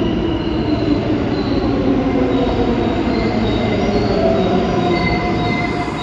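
New York City Subway L train moving along the platform, a loud steady rumble of wheels on rail with several high whining tones that slowly shift in pitch.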